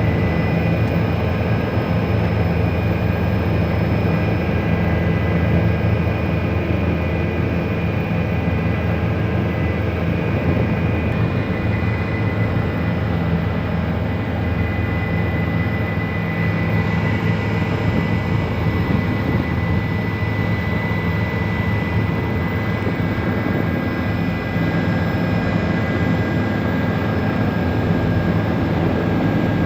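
Helicopter in flight, heard on board: a steady low drone from the engine and rotor with a thin high whine over it.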